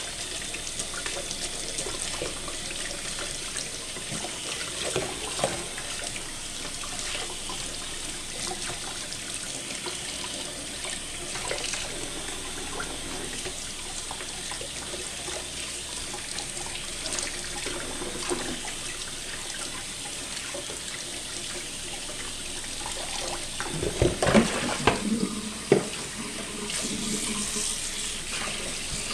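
Kitchen faucet running water into the sink in a steady stream. There is a short cluster of louder knocks and clatter about 24 seconds in.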